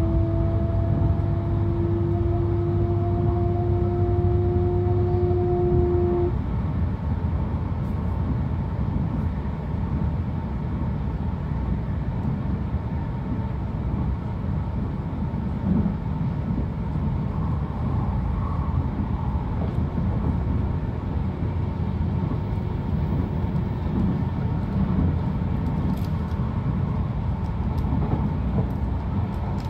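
Akita Shinkansen Komachi train running at speed, heard from inside the passenger car: a steady rolling rumble, with a hum that rises slightly in pitch and stops about six seconds in.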